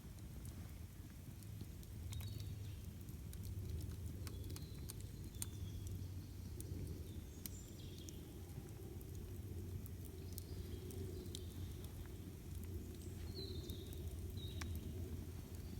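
Campfire crackling with scattered sharp pops over a low, steady rumble, while small birds give short chirps every few seconds.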